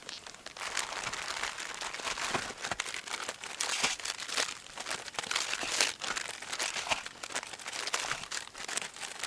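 Plastic packaging crinkling and rustling as it is handled, a dense run of sharp crackles.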